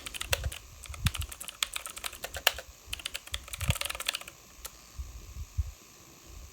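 Rapid light clicking and tapping, a dense run of sharp clicks for about four seconds, then a single click.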